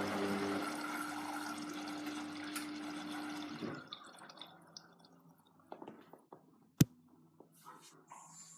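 Hoover washing machine's drain pump humming as it pumps out gushing water, which gurgles away and stops about three and a half seconds in. Then a few faint ticks and one sharp click near the end.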